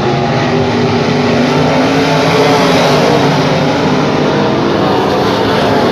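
Dirt-track race car's engine running hard at racing speed, its pitch wavering slightly without letting up.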